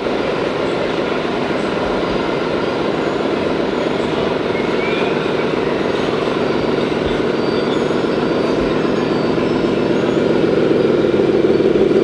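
A truck engine sound running steadily with a fast pulsing beat, growing a little louder near the end.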